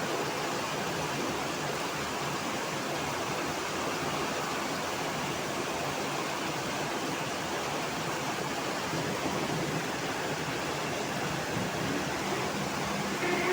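Heavy rain falling, a steady even hiss, with a faint low hum near the end.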